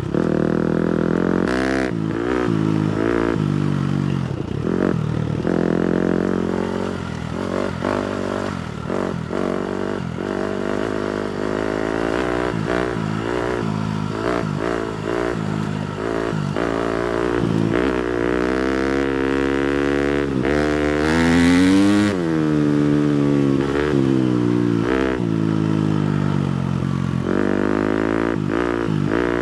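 250cc four-stroke motocross bike engine being ridden, revs rising and falling with the throttle and gear changes, with one sharp climb and drop in revs about two-thirds of the way through. Scattered knocks and rattles from the bike running over rough ground.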